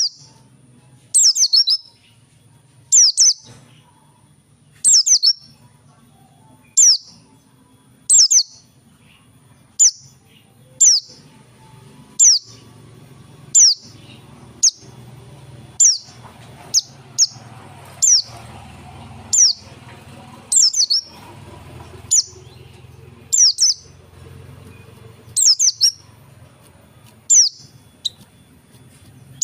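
A pleci (white-eye, Zosterops) calling steadily: short, high, sharply falling notes repeated about once every one to two seconds, over a low background hum.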